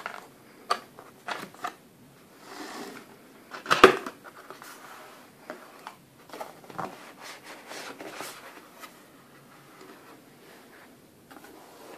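Cardboard box and its packaging being handled and opened: scattered scrapes, clicks and rustles, with one louder knock about four seconds in.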